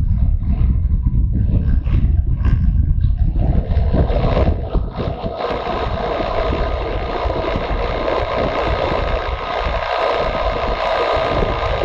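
Motorcycle riding along, with wind buffeting the microphone over the engine. About four seconds in, the heavy low rumble eases and a steadier engine hum with more mid-range tone takes over.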